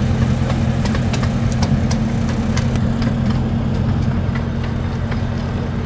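Park train locomotive's engine running steadily at a low idle, with a series of sharp clicks and ticks over the first few seconds that then die away.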